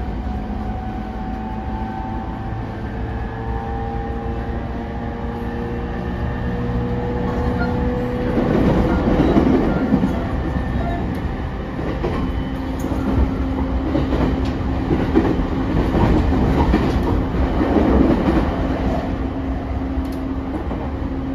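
Cabin running sound of a JR E231-0 series commuter train. The traction motors give a whine that rises slightly in pitch for roughly the first eight seconds as the train picks up speed. Rolling wheel-and-rail noise with clickety-clack over the rail joints then takes over, swelling louder twice.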